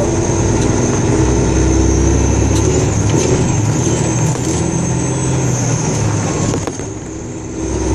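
A car driving along a road: steady low engine and road rumble that eases for about a second near the end.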